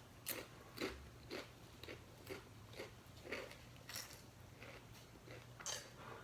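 Chewing close to the microphone: a series of soft, short mouth clicks and smacks, about two a second.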